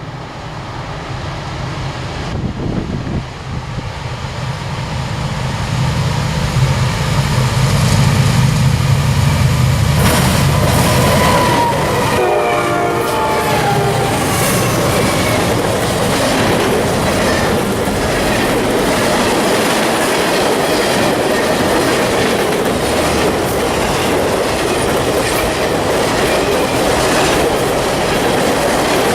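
Diesel locomotives on a freight train draw near, their engine drone building and then passing. About twelve seconds in the air horn sounds briefly. The freight cars then roll by steadily, their wheels clicking over the rail joints.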